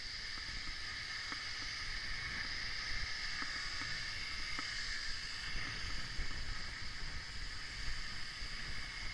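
Wind rushing and buffeting on a bike-mounted camera's microphone while cycling in traffic, a steady hiss over an uneven low rumble.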